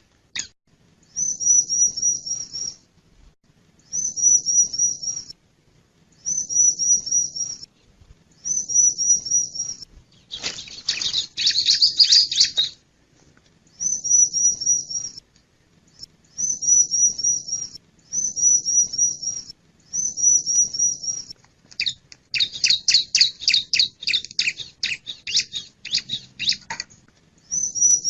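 Male bar-winged prinia (ciblek) calling: a short phrase of rapid high notes repeated about once every two and a half seconds, broken twice, around ten and twenty-two seconds in, by longer, fuller runs of fast notes.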